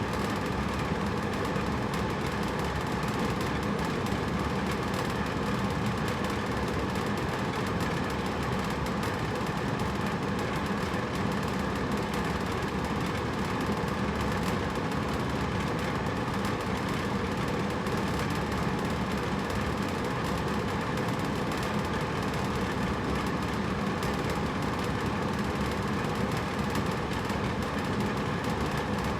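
Hotel room air conditioner running: a steady, even hum and rush of air that doesn't change.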